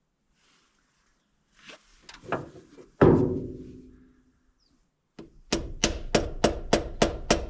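Hand tools on the exposed valve train of a 1961 Chevrolet Viking 60 truck engine: a little scraping, then one sharp metallic clang that rings for about a second. Near the end comes a steady run of quick metallic taps, about four a second.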